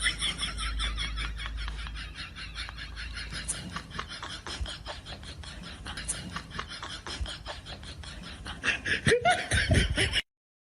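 A person laughing in quick, breathy pulses, with a short voiced sound near the end; the audio then cuts off abruptly.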